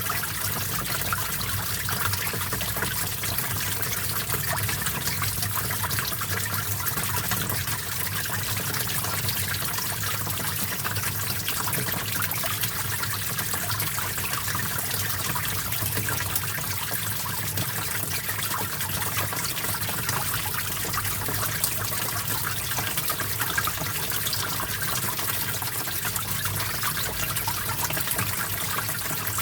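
Small stream of water flowing and trickling steadily, a dense bubbling hiss mostly in the upper range.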